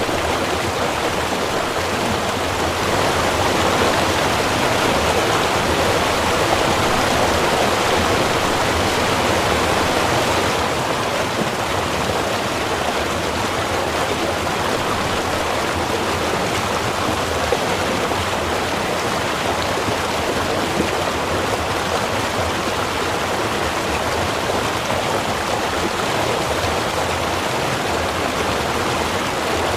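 Small river or stream flowing, a steady rushing of water.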